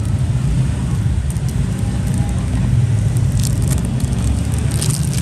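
Steady low rumble of road traffic, with a few brief sharp clicks about three and a half seconds in and near the end.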